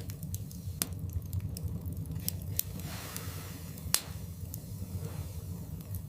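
Wood fire burning in a fireplace, crackling with scattered sharp pops over the low, steady rumble of the flames; the loudest pop comes about four seconds in.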